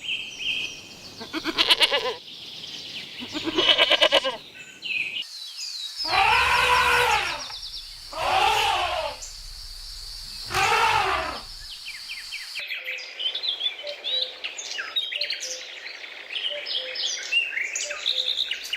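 Livestock bleating: two short quavering bleats, then three long drawn-out bleats about two seconds apart. About two-thirds of the way in, this gives way to small birds chirping and twittering rapidly.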